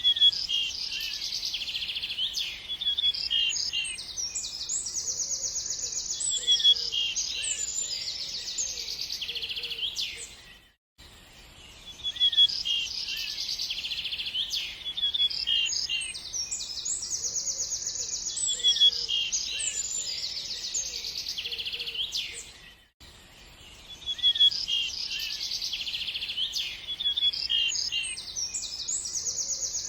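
Small birds chirping and trilling, with many quick high-pitched notes and fast trills. The same stretch of song repeats about every eleven and a half seconds, cutting out briefly between repeats, a looped recording.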